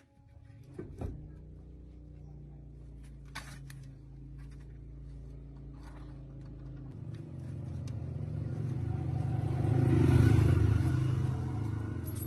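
A tractor engine running steadily after starting up. From about seven seconds in it grows louder, peaking near ten seconds, then eases back.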